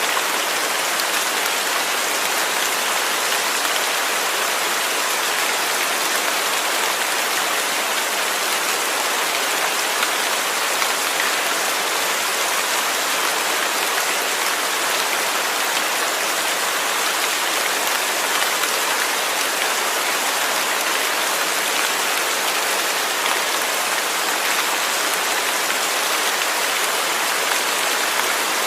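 Steady rain falling on a surface: an even, unbroken patter of drops with no change in strength.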